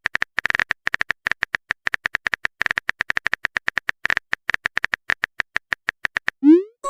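Rapid, irregular clicks of a phone-keyboard typing sound effect, several a second, all at the same bright pitch. Near the end a short rising pop sounds: the start of a message-sent notification chime.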